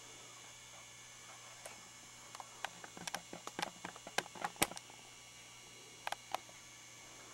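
Steady electrical hum from an Olympia Beer lighted waterfall sign, with a flurry of sharp, irregular clicks and taps starting about two seconds in and three more near the end.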